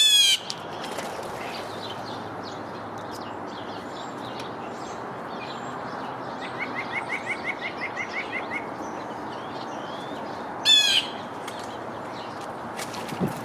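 Wild songbirds calling around a backyard feeder. A loud, harsh call sounds right at the start and again near the end, and a rapid series of about ten short, rising piping notes comes midway, over faint scattered chirps and a steady outdoor hiss.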